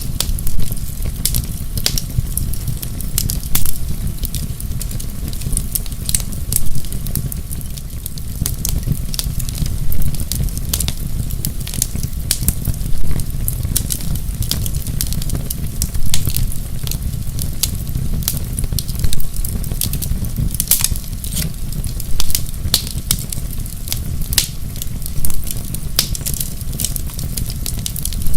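Wood fire crackling in a fireplace: a steady low rumble of burning with dense sharp crackles and pops, a louder pop about every three seconds.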